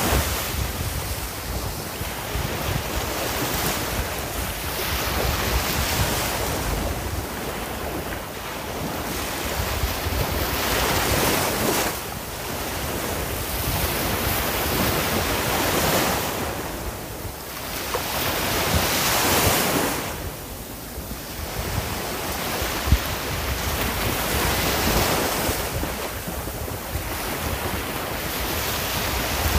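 Sea waves breaking and washing up the shore, the surf swelling and falling back every few seconds.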